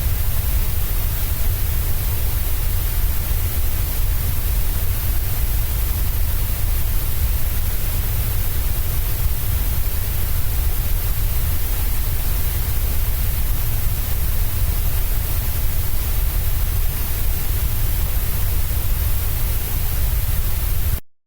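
Steady white noise, a hiss with a strong deep rumble under it, unchanging throughout; it cuts off abruptly to silence just before the end.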